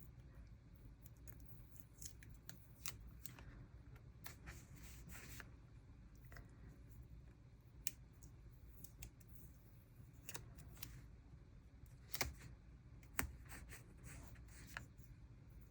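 Faint paper-craft handling: scattered light ticks and short rustles of paper and washi stickers being handled and pressed onto a journal page, with a few sharper ticks after the midpoint.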